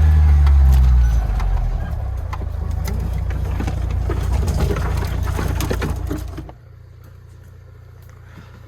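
Lada Niva's engine running under load on a rough mountain track, with many knocks and rattles over the rumble. About six and a half seconds in it drops sharply to a quiet, steady low hum.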